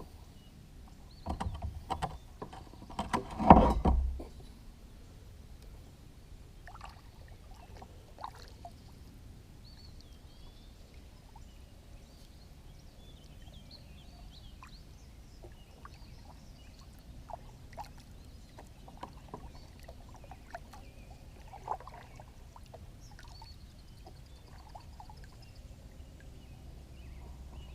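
Kayak sounds on the water: a few splashing, knocking noises in the first four seconds, the loudest about three and a half seconds in, then quiet with scattered small ticks.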